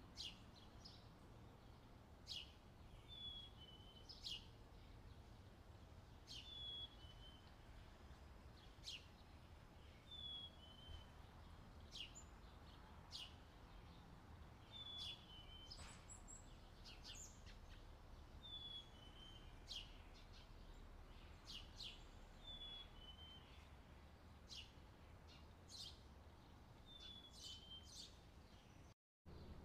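Faint bird chirping in a near-silent room: one short falling chirp repeated every few seconds, with light scattered clicks in between.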